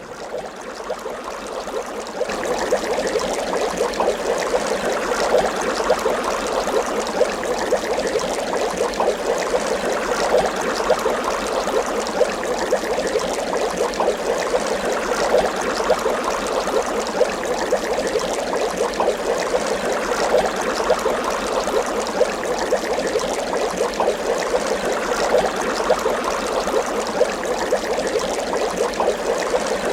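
Water bubbling steadily: a dense, even stream of small bubble pops. It builds up over the first couple of seconds, then holds level.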